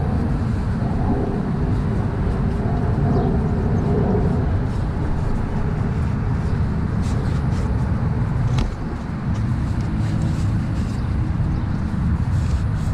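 Steady low rumbling background noise, with a few faint clicks and taps in the second half.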